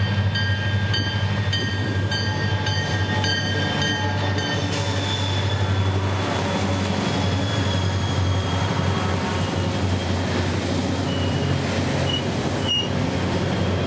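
Diesel passenger locomotive arriving slowly. Its bell rings about twice a second, then stops after about four and a half seconds, over the steady low running of the engine. Short high wheel squeals come near the end as the coaches roll past.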